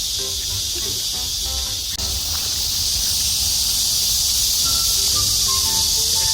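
Cicadas buzzing in a steady, high chorus. From about halfway, light background music of short, stepping notes comes in over it.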